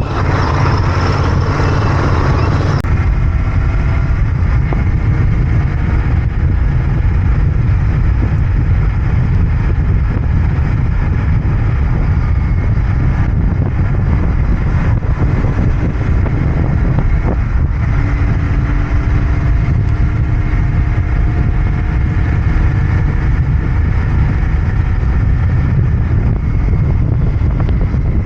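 Royal Enfield Interceptor 650's parallel-twin engine and exhaust running steadily under way, its pitch climbing a few times as the bike accelerates. A brighter, louder layer of road noise in the first few seconds stops suddenly.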